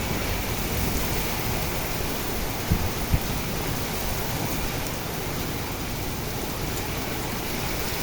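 Heavy rain falling steadily, an even hiss, with two brief low thumps about three seconds in.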